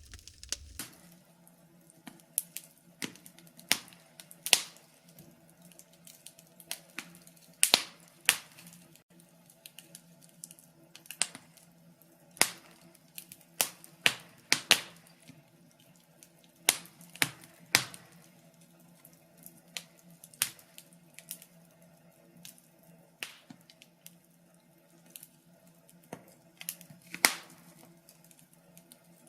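Wood fire crackling: sharp, irregular pops and snaps, sometimes several close together, over a faint steady low hum.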